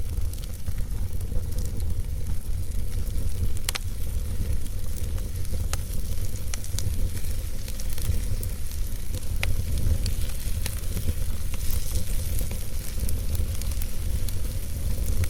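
Log fire burning in a fireplace: a steady low rumble with scattered sharp crackles and pops from the burning wood, the strongest about four seconds in.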